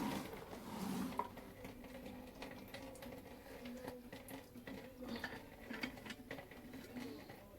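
Faint light clicks and knocks of things being handled, over a low steady hum.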